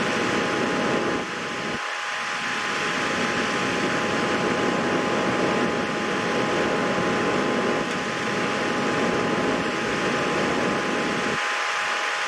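Steady machine whirring, like a running fan, with two thin steady tones held through it.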